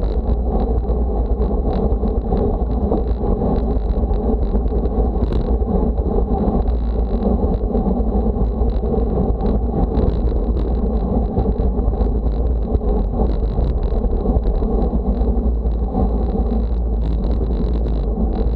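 Steady wind rumble buffeting the microphone, with a faint steady high whine throughout.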